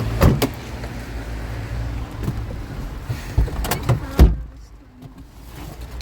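A running vehicle's low steady rumble with several sharp knocks and clunks. A heavy thump about four seconds in is the loudest, and after it the rumble drops away sharply.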